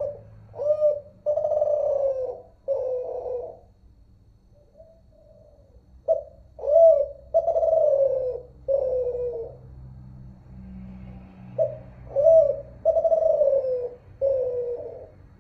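Spotted dove (terkukur) of the Kelantan 'derkuku' song type cooing: three phrases about six seconds apart, each a short note, a rising-and-falling note, then two longer falling coos. A faint steady low hum runs underneath.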